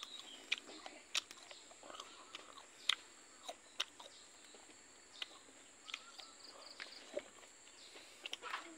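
A person chewing and eating silkworm pupae with rice: soft, irregular mouth clicks and wet smacks, a few every second. A steady high-pitched hiss runs underneath.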